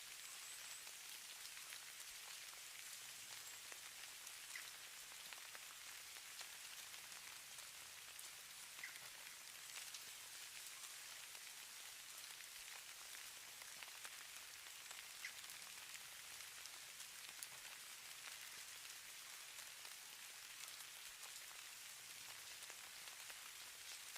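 Falling snow ambience: a faint, steady soft hiss of fine pattering, with scattered tiny ticks.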